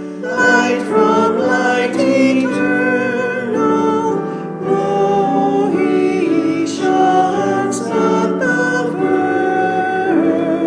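Church congregation and choir singing a hymn together, with instrumental accompaniment, sung notes moving steadily from one to the next.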